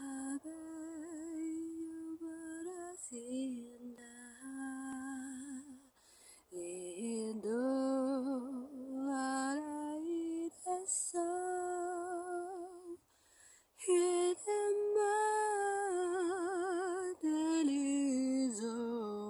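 A woman singing wordlessly, slow held notes with wide vibrato in a lullaby-like melody, phrases broken by short pauses.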